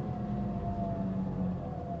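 Mitsubishi Fuso Aerostar city bus under way, its diesel engine giving a heavy drone with a high steady whine over it. The whine is the abnormal noise this bus was making. The low drone drops back about one and a half seconds in.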